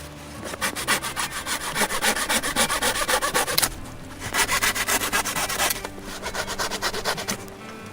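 A saw cutting wood, rasping in rapid strokes in two spells with a short break near the middle, the second spell fading in its last seconds. Faint music runs underneath.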